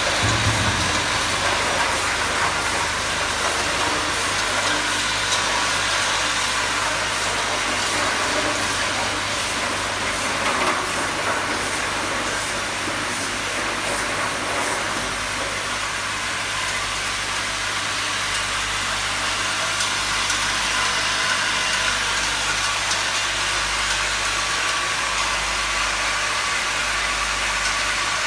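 Bottle-handling machine running on test: a steady mechanical hum with hiss.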